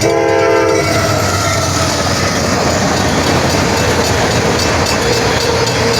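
A train horn blows a held chord that cuts off about a second in. The train then rolls past the crossing with loud, steady rumbling and clattering of its wheels on the rails.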